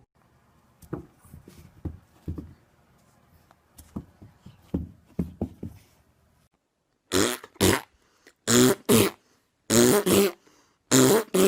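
A dog giving about six loud, short, pitched vocal bursts in the second half, after a few seconds of faint scattered short sounds.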